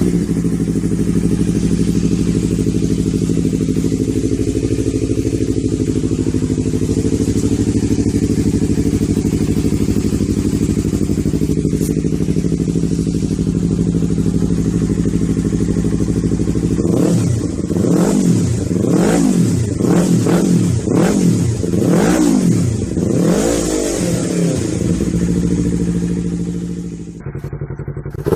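Yamaha MT-03 motorcycle with an aftermarket exhaust idling steadily, then revved in about seven quick throttle blips, each rising and falling in pitch, before dropping back near the end.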